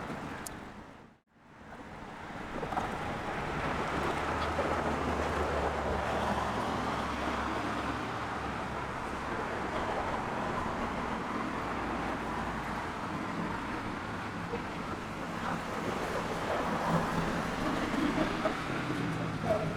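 Steady outdoor background of distant road traffic with a low hum, dropping out briefly about a second in before it returns.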